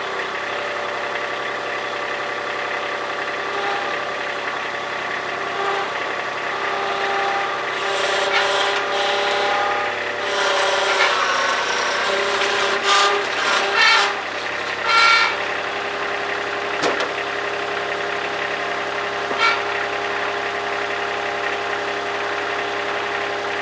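Madvac rider vacuum's Kubota D1105 three-cylinder diesel running steadily. Between about 8 and 15 seconds in, a run of rasping, scraping noises rises over it, with three short loud ones near the end of that stretch.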